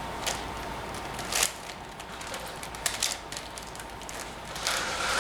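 Scattered plastic clicks and clacks of a 5x5 puzzle cube's layers being turned by hand.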